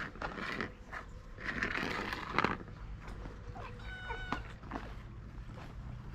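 A stray cat gives one short meow about four seconds in. Before it comes a second or so of rustling noise with a few clicks.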